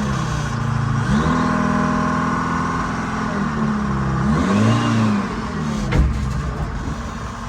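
A vehicle engine revving under load while pushing or lifting a truck over: it rises about a second in and holds, revs up and back down again around the middle, and a single sharp bang comes about six seconds in.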